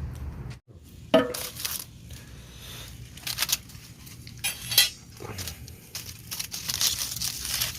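Aluminium foil crinkling and rustling in irregular bursts as it is wrapped around sweet potatoes for roasting in the campfire.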